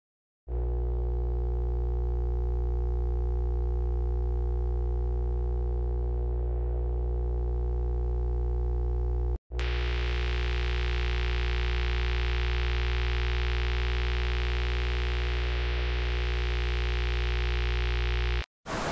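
Steady, low, distorted synthesized drone from a mock emergency alert broadcast, in two stretches of about nine seconds each, split by a brief dropout. A layer of hiss joins it in the second stretch.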